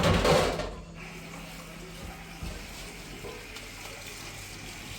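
A splash of water in the first second, then water running or pouring in a steady stream.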